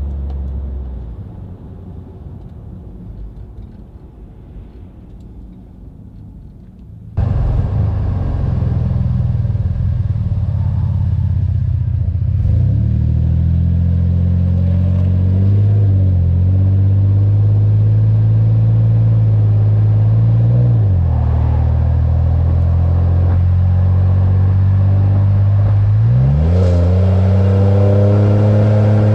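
Exhaust of a 2017 Chevy Silverado's 4.3 L V6 on the road, through an MBRP dual exhaust fitted with cheap eBay dual-outlet 'racing mufflers' that give it a deeper, mellower, less raspy note. The engine eases off at first, then the sound jumps suddenly louder about seven seconds in. From there the engine pulls steadily, with two short dips in pitch as it changes gear, and revs up in a rising climb near the end before dropping again.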